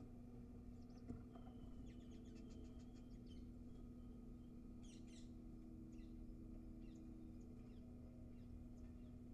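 Faint chirps of small birds: a quick run of ticks about two seconds in and a louder double chirp about five seconds in, with scattered chirps after, over a steady low hum.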